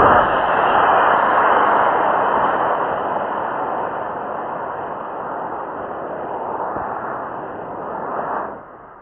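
C6 model rocket motor igniting on the pad with a sudden start, then a loud, steady rushing hiss that slowly fades and drops away near the end.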